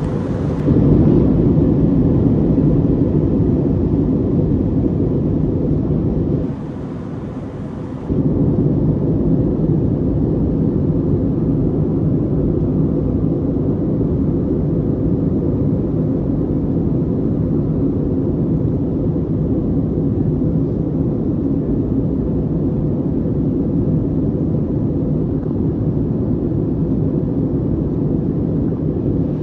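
Steady jet airliner cabin noise inside an Airbus in flight: a low rumble of engines and airflow with a faint steady hum. It dips quieter for a second or two about six seconds in, then returns to the same level.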